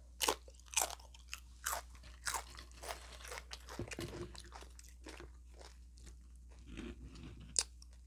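Hard, crunchy taco shell being bitten into and chewed close to the microphone: a run of sharp crunches, loudest in the first two seconds, settling into softer chewing, with one more sharp crunch near the end.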